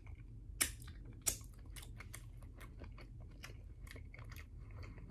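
Close-miked chewing of boiled shrimp: quiet, wet mouth clicks about two to three a second, with two sharper smacks in the first second and a half.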